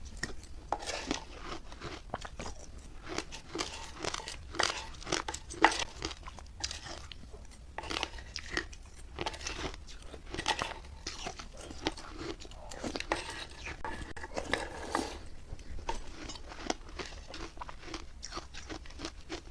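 Crunchy biting and chewing of hard refrozen milk-and-matcha ice, a run of irregular crisp cracks several times a second.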